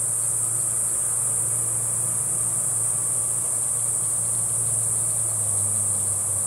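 A steady, high-pitched chorus of night insects such as crickets, over a low steady hum.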